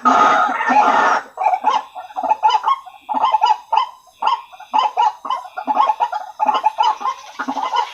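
White-breasted waterhen (ruak-ruak) calls played as a bird lure: dense overlapping calling for about the first second, then short repeated calls about two a second.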